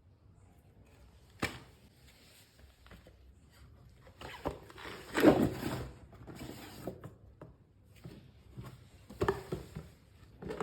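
Toy pieces being handled and fitted onto a learning-tree toy: small knocks, clicks and rustling. A sharp click comes about one and a half seconds in, a busier cluster of knocks near the middle is the loudest part, and a few more knocks come near the end.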